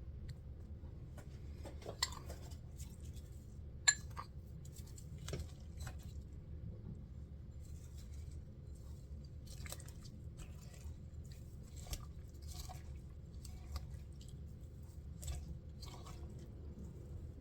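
Kitchen dishes and utensils being handled: scattered light clicks and rustles, with two sharp ringing clinks, like glass or crockery knocked together, about two and four seconds in, over a low steady hum.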